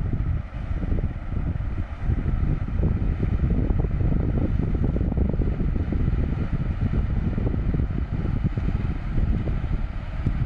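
Wind buffeting the microphone in uneven gusts, a continuous low rush with no clear single event.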